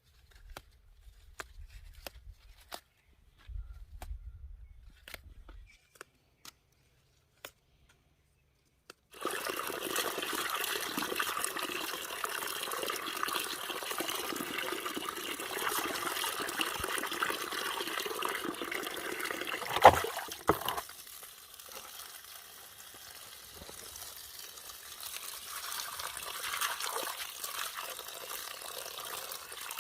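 A few faint clicks of handling, then about nine seconds in, water starts running in a steady stream and keeps running, with one sharp knock about twenty seconds in.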